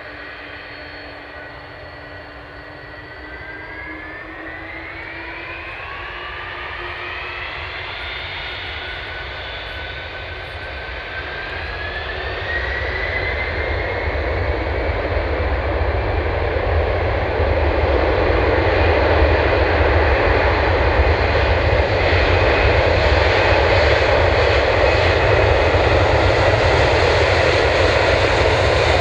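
Boeing 747 jet engines spooling up to takeoff power, with a whine that climbs in pitch over the first dozen seconds. A jet roar builds under it and grows louder, then holds steady and loud for the second half as the jet rolls for takeoff.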